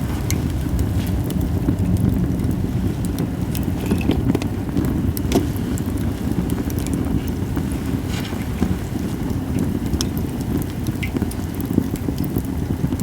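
Japanese cedar (sugi) campfire crackling, with scattered sharp pops, the sharpest about five seconds in, over a steady low rumble.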